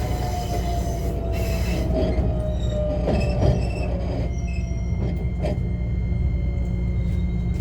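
Running sound inside a JR West 125 series electric railcar: the Toyo IGBT inverter and traction motor whine slides slowly down in pitch over the steady rumble of wheels on rail, with a few sharp rail-joint clicks. About four seconds in the whine and the upper hiss fade, leaving a steady high tone over the rumble.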